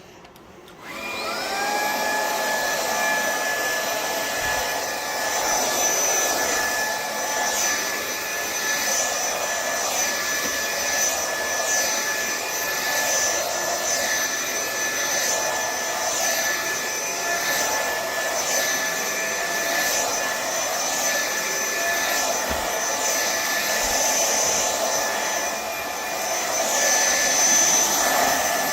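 VACLAB 22 kPa cordless stick vacuum switched on about a second in, its motor spinning up to a steady high whine. It then runs with a rushing airflow that swells and eases as it is pushed back and forth vacuuming.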